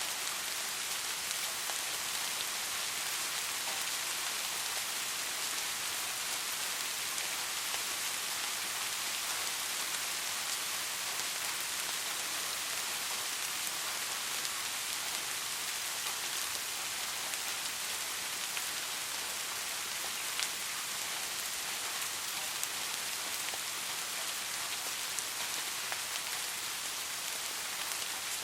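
Steady rain falling: an even hiss with faint scattered drop ticks, holding at the same strength throughout.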